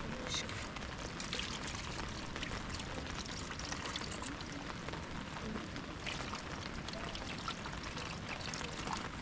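Steady rain with water trickling and splashing, a continuous patter of many small drops.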